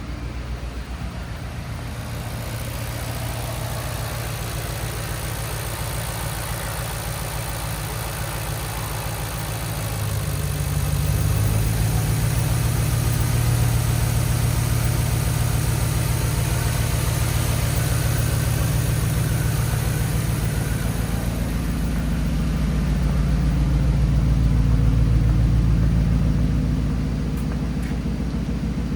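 2013 Ford F-150's 5.0-litre V8 running, first at idle, then brought up to raised revs about ten seconds in. It eases off briefly, rises again, and drops back toward idle near the end.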